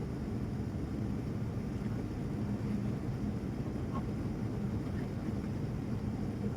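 Steady low cabin roar of a Boeing 787-9 still climbing after takeoff, engine and airflow noise heard from inside the cabin, with an even hum running under it.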